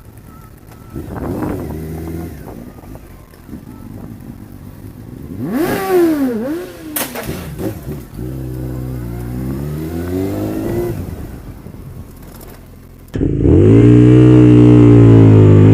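Motorcycle engine heard from the bike itself, revving up and down through the gears. About 13 seconds in, it gives way abruptly to a much louder, steady engine note held at high revs.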